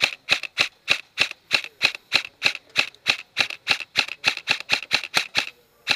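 Airsoft rifle firing single shots in quick succession, about three a second: a steady string of sharp clicking pops.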